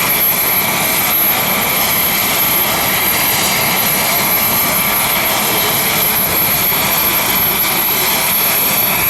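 Leonardo AW249 Fenice attack helicopter in flight: steady, loud turbine and rotor noise that does not break or change.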